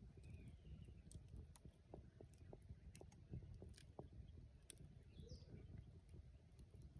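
Wood campfire crackling and popping in irregular sharp snaps over a soft low rumble. A common bulbul calls faintly and briefly about half a second in and again near five seconds.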